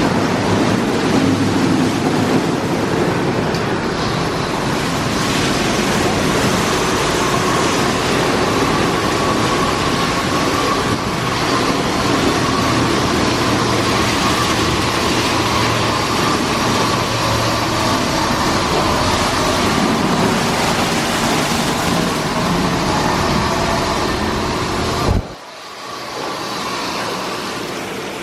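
Automatic car wash equipment running: a loud, steady rush of spray and machinery with a faint steady whine, which cuts off suddenly about 25 seconds in, leaving a quieter rush.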